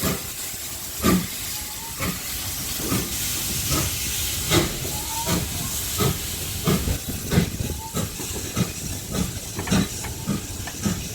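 GWR 4500-class 2-6-2 tank steam locomotive 4555 Warrior pulling away from a station. Its exhaust beats come over a steady steam hiss and quicken from about one a second to nearly two a second as it gathers speed.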